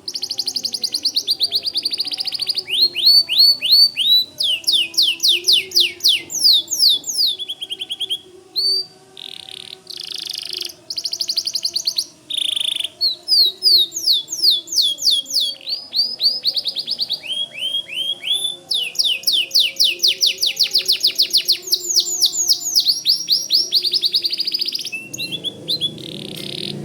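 White canary singing a long, fast song: rapid runs of repeated falling notes, one run after another, with short breaks between phrases.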